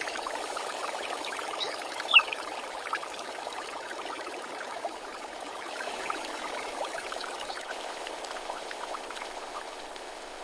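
Water bubbling and trickling, with many small crackles scattered through it and one sharp click about two seconds in.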